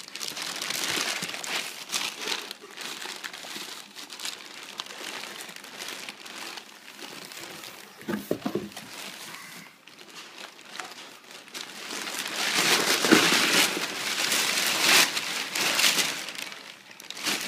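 Gift-wrapping paper crinkling and rustling in uneven bursts as a child unwraps a present, loudest and most busy about twelve seconds in.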